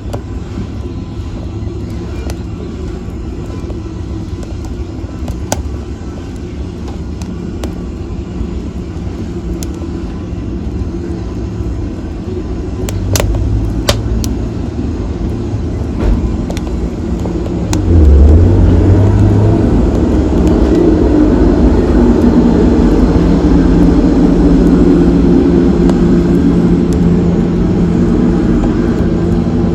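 Wood fire burning in a fireplace: a steady low roar of flames with occasional sharp crackles and pops from the logs. The roar swells louder a little past halfway.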